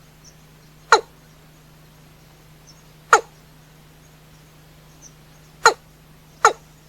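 Watercock (cúm núm) calling: four short, sharp notes that each drop quickly in pitch, spaced unevenly a second to two and a half seconds apart, over a faint steady hum.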